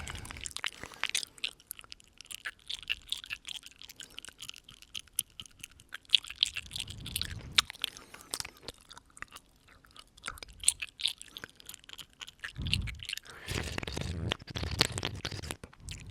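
Close-up ASMR mouth sounds: rapid wet clicks and smacks of lips and tongue, with breaths blown onto the microphone about a third of the way in and again near the end.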